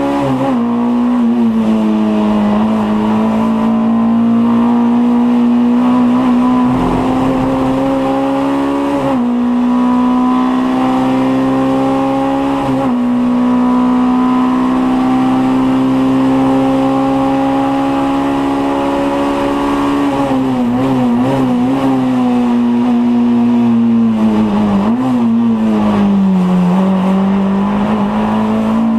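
Mk2 VW Scirocco 16v race car's 16-valve four-cylinder engine under hard acceleration, heard from inside the cabin. The revs climb steadily with short dips at gear changes about nine and thirteen seconds in. From about twenty seconds in the revs waver and fall as the car slows for a corner, then pick up again near the end.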